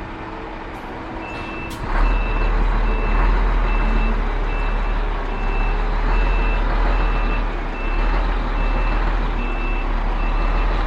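Truck reversing alarm beeping steadily, about two beeps a second, over a heavy diesel truck engine that grows much louder about two seconds in.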